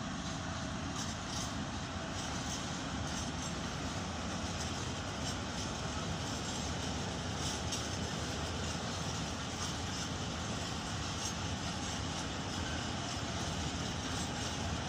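Covered freight wagons of a locomotive-hauled goods train rolling steadily past, a continuous rumble with scattered clacks from the wheels.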